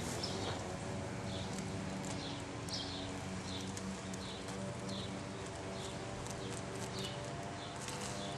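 A bird chirping over and over, short high chirps about one or two a second, over a steady low hum.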